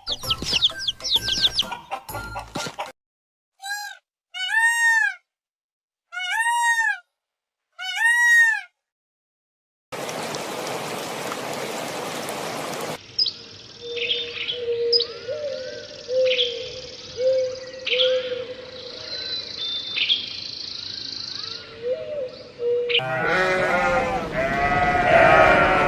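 A run of farm-animal sound clips: four separate bleats with short silences between them, a few seconds of even hiss, a stretch of short mixed calls and clicks, then many sheep bleating together near the end.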